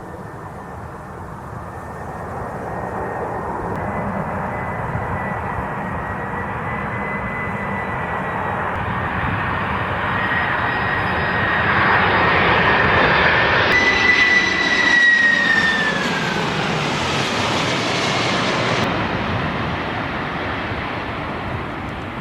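Boeing 747-400F freighter's four jet engines as it passes by: the noise builds, with a steady whine that drops in pitch about two thirds of the way through as it goes past, then slowly fades.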